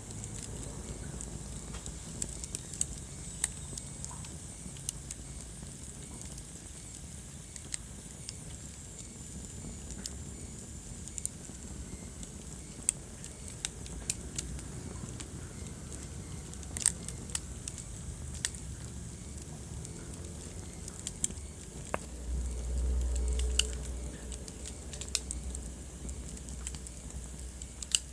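Wood fire crackling in a fireplace: irregular sharp pops and snaps over a steady low rumble of flames. The low rumble swells louder for a couple of seconds about three-quarters of the way through.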